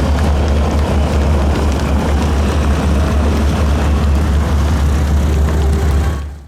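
C-17 Globemaster III's four turbofan jet engines running loud and steady, with a heavy low rumble, then falling away sharply at the very end.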